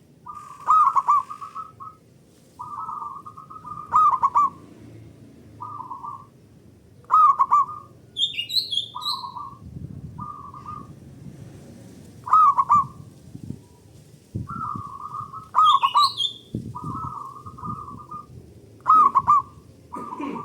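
Zebra doves (perkutut) cooing back and forth in their rhythmic manggung song. A loud phrase comes about every three seconds, with shorter soft coos in between. Twice a brief, higher twittering call cuts in.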